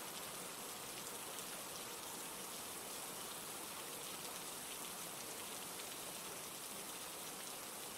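Steady rain falling, an even hiss of many small drops with no lulls or gusts.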